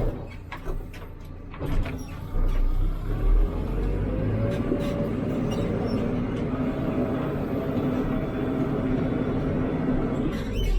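Hidromek 102B backhoe loader's diesel engine running under work, with a few sharp clanks in the first two seconds. From about three seconds in the engine settles to a steady note that rises slightly as load comes on.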